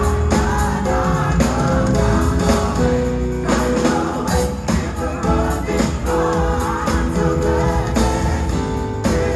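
Gospel choir singing long held notes in harmony over a live band, with drums and a heavy bass line.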